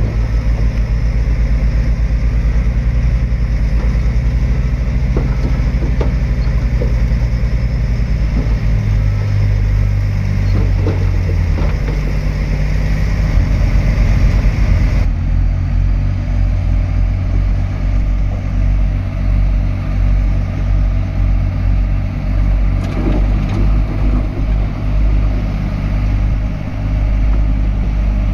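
Heavy diesel engines of earthmoving machinery running steadily, with a deep engine note that grows stronger for a few seconds around the middle. About halfway through, the sound changes abruptly.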